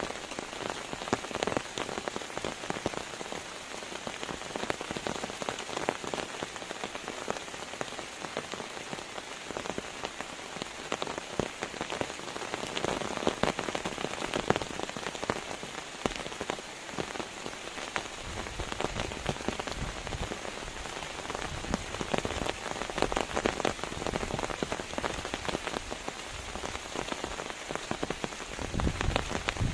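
Steady rain falling on a surface, a dense patter of drops, with a low rumble coming in about two thirds of the way through and again near the end.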